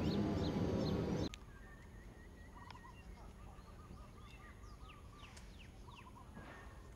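A loud, dense din with a high chirp about twice a second cuts off abruptly just over a second in. After it, much quieter, blue-throated bee-eaters call: a run of short rolling notes and several quick downward-sweeping calls.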